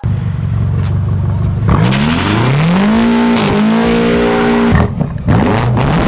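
BMW F90 M5 Competition's twin-turbo V8 running steadily, then revving up about two seconds in. The revs hold high with a brief dip, drop sharply about five seconds in, and begin to climb again at the end.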